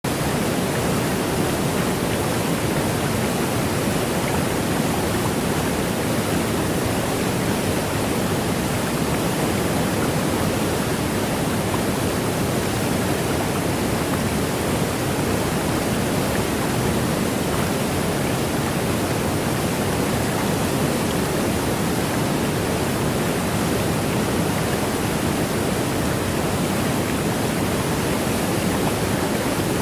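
A steady, even rushing noise that never changes in level, with no single sounds standing out from it.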